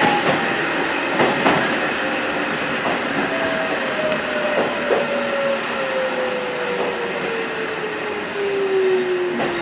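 Toyama Chiho Railway 14760-series electric train slowing down: a motor whine falls steadily in pitch over running noise as the train brakes, with pairs of clicks from the wheels crossing rail joints.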